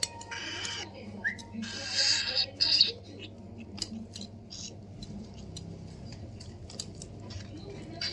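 Baby parrot giving harsh, hissy begging calls while being hand-fed: three loud bursts in the first three seconds, with a short rising chirp between them. After that, scattered small clicks.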